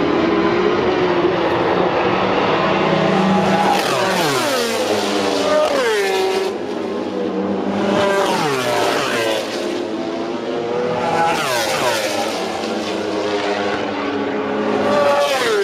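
MotoGP racing motorcycles at full speed, their engine notes repeatedly sweeping down in pitch as bikes go past, about five times.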